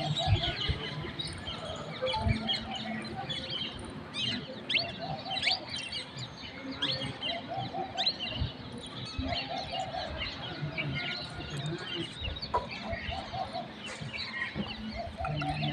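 Many birds calling at once: a dense chorus of high chirps and short sweeping notes, with a lower call repeated in short groups of several notes every second or two.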